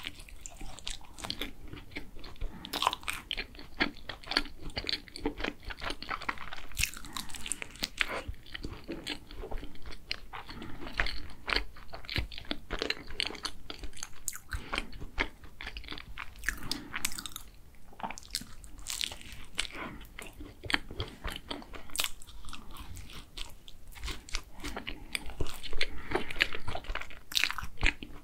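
Close-miked biting and chewing of a green tea and chocolate tart, its pastry shell crunching in many quick, irregular crackles.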